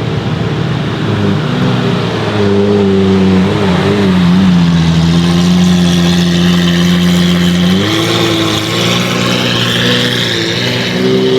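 A car engine running close by at steady revs, its pitch stepping up about two seconds in and again near eight seconds.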